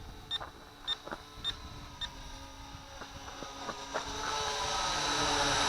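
The Syma X8C quadcopter's radio transmitter beeps about twice a second, the repeated beep it gives while in headless mode. Near the end the quadcopter's four small electric motors swell into a rising whine as it climbs.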